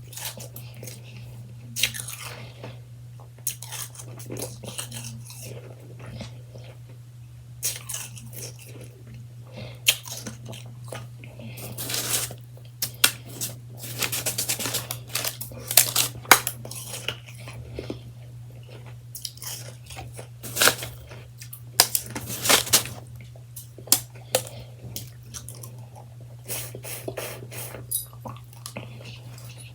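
Close-miked chewing of freshly shaved ice: soft, irregular crunches in clusters, with a steady low hum underneath.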